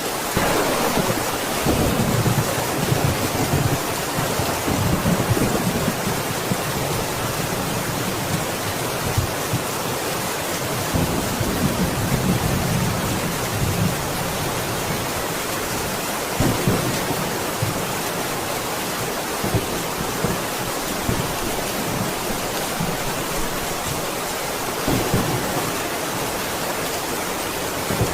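Steady rain hissing, with rolls of low thunder rumbling through it: a long rumble at the start, another about halfway, and shorter ones later on.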